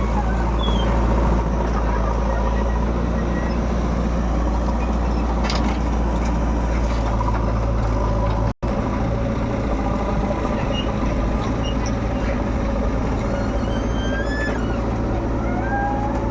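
Diesel engines of a JCB 3DX backhoe loader and tractors running steadily at a mud-loading site. The sound drops out for an instant just past halfway, and the engine hum changes after the break.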